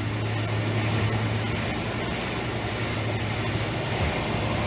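Steady hum of a motor-driven fan, a constant low drone with a rush of moving air.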